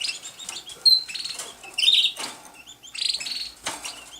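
Pet canaries chirping: a busy run of short, high cheeps and quick trills, with a few louder notes standing out.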